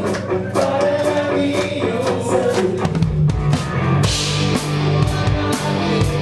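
A live rock band playing, with drum kit hits and guitar; a cymbal crash comes in about four seconds in.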